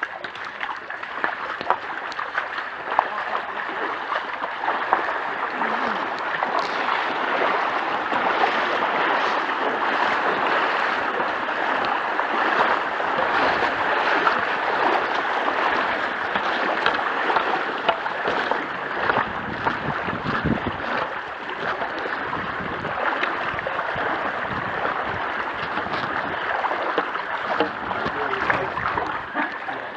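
Floodwater splashing and swishing steadily as it is moved through, with many small splashes. A few low bumps come through about two-thirds of the way in.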